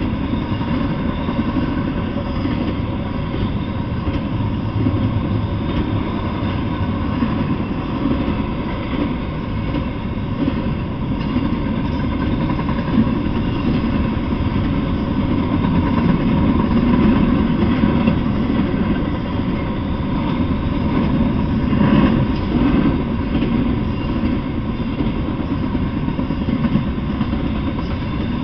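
Double-stack intermodal freight train rolling past: a steady, even rumble of steel wheels on the rails, with a few faint knocks from the passing cars.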